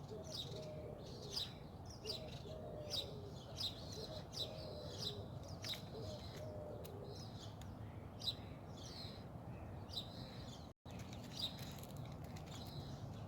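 Small birds chirping: short high chirps repeating about every half second to a second throughout, with a fainter lower call in the first half. The sound cuts out for an instant near the end.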